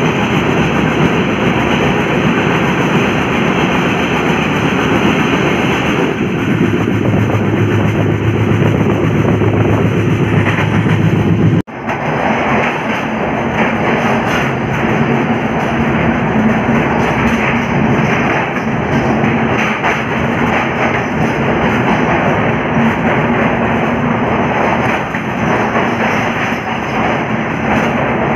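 Indian express passenger train running at speed, heard at the open doorway of a sleeper coach: a steady, loud rush of wheels on rails and moving air, with one brief dropout a little under halfway through.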